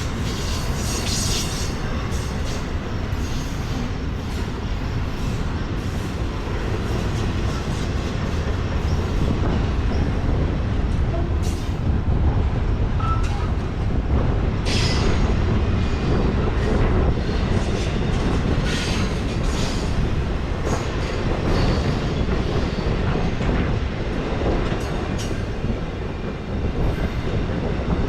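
Freight train rolling past with a steady rumble of wheels on rail, a little louder in the second half, and a few brief sharp, high sounds from the wheels.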